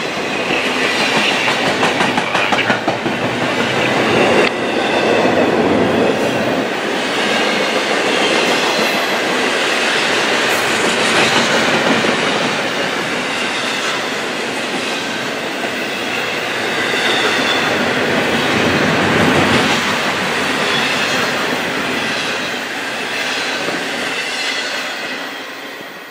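CSX freight train's cars rolling past, wheels clacking over rail joints with a faint squeal from the wheels; the sound begins to fade near the end.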